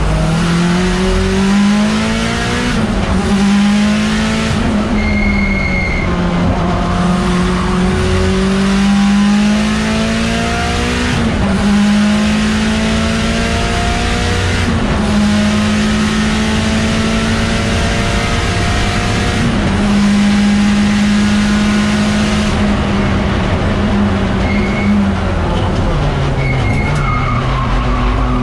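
Mitsubishi Lancer Evolution X race car's turbocharged four-cylinder engine at full throttle, heard from inside the cabin. The pitch climbs and drops back at each gear change, several times, then falls near the end as the car slows.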